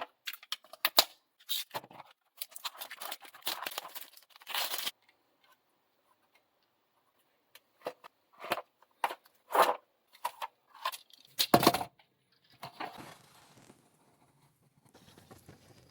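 Toy car packaging being handled and opened by hand: irregular crinkles, tears and sharp clicks of plastic and card. The noises come in two spells with a silent pause of about three seconds between them, and fade to a faint rustle near the end.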